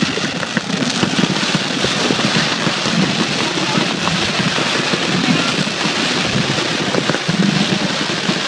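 Fireworks crackling: a dense, continuous crackle of many small bursts, holding steady.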